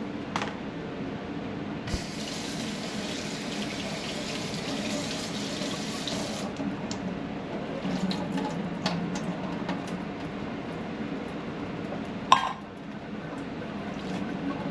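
Kitchen tap running into a sink for a few seconds, then shut off, followed by light clinks of pots and utensils and one sharp knock near the end.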